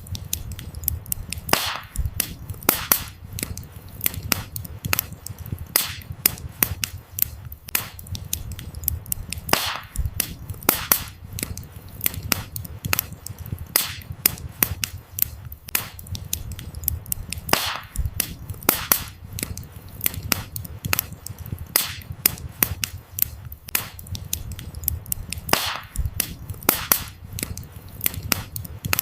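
Wood fire crackling and popping continuously, with sharp snaps from the burning firewood over a low, steady rumble of the flames.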